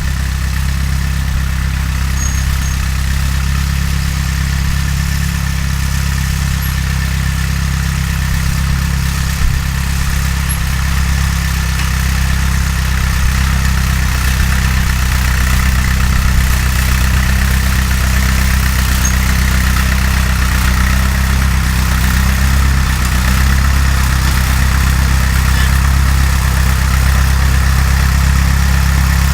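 Fiat 352c tractor engine running steadily, with one brief knock about nine seconds in.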